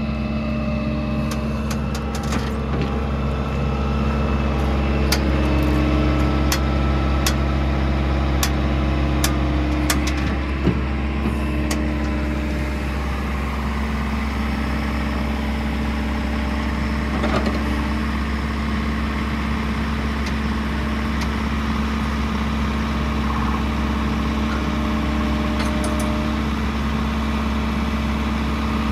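Deere 410L backhoe's 4.5-litre turbo diesel engine idling steadily, with a scattering of sharp clicks over the first ten seconds or so.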